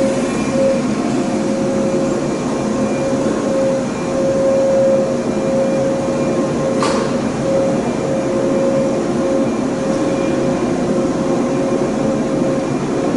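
A 485 series electric train rolling slowly along the platform: steady running noise under a held electrical hum, with one sharp click about seven seconds in.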